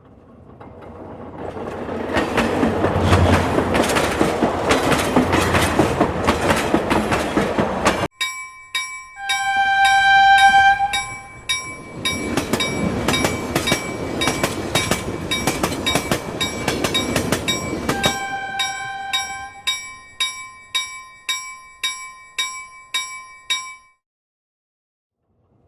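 Train running with a loud rumble and wheel clatter, then after a sudden cut about eight seconds in, a regular clickety-clack of wheels over rail joints. The train horn sounds briefly twice. The clicks slow and stop near the end.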